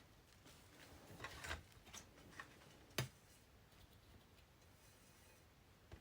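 Faint handling of painting supplies: a brief scraping rustle about a second in, a couple of light ticks, then one sharp click about halfway through.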